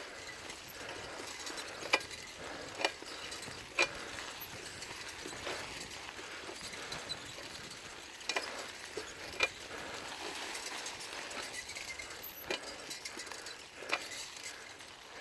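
Bicycle being ridden: steady faint noise with sharp, irregular clicks and rattles every second or so.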